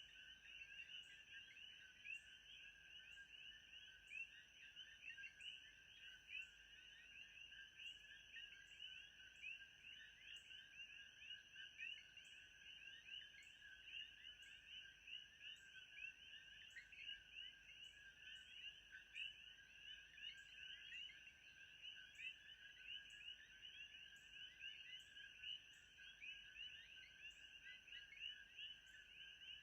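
Faint, steady chorus of many overlapping chirping calls, with a soft high tick repeating about once a second.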